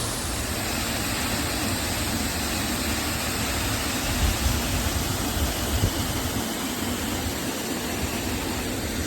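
Waterfall rushing steadily, with a few low bumps on the microphone around the middle.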